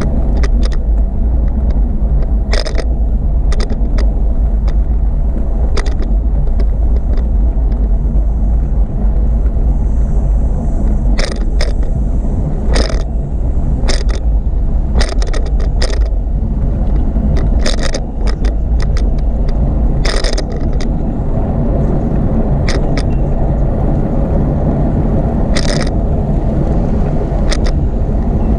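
Noise of a bicycle ride: a steady, loud low rumble with many short, sharp clicks and rattles scattered irregularly through it.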